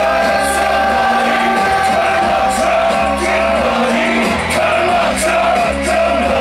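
Live hip-hop/rock concert music played loud through a PA, with a held high tone over a chopped bass line and a steady beat, and shouting or singing from the stage or crowd.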